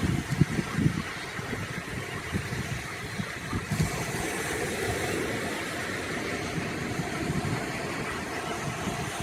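Wind buffeting the microphone in irregular low gusts, over a steady wash of surf.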